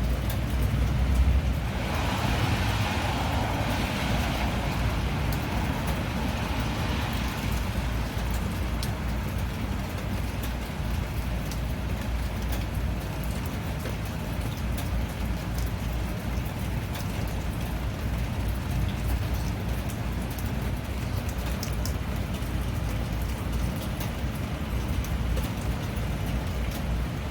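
Steady rain falling, with scattered drips and a constant low rumble underneath. About two seconds in, a louder hissing rush swells up and fades away over the next several seconds.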